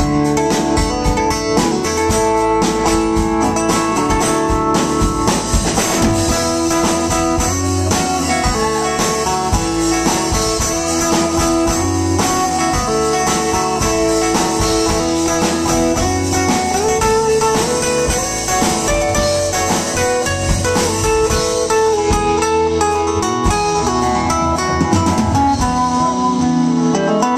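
Live band playing an instrumental break between verses: a guitar plays a lead line with bent notes over drums.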